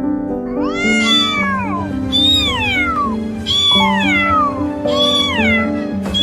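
A cat meowing four times, each meow rising briefly and then falling in pitch, over background music with steady held notes.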